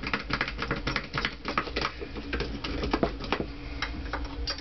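Quick, irregular metal clicks and taps from working the valves out of a Honda CX500 cylinder head: the small valve keepers are lifted off the compressed valve spring with a magnet.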